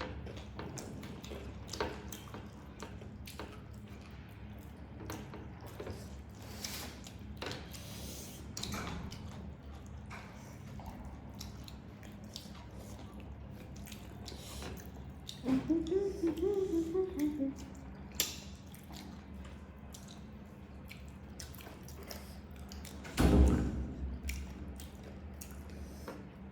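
Small wet clicks and smacks of people eating curry and rice, over a steady low hum. A short wavering voiced sound comes a little past the middle, and a loud thump comes near the end.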